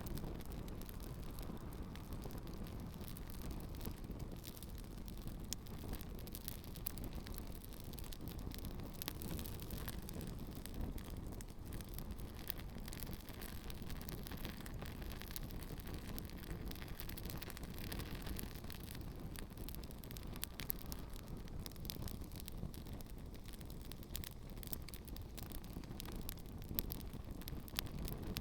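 Campfire burning a pair of shoes, with frequent sharp crackles and pops over a steady low rumble.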